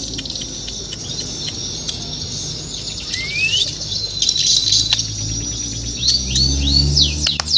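White-rumped shama (murai batu Borneo) singing. A rising whistle about three seconds in, a held high note, then a quick run of short falling notes near the end, amid sharp clicks.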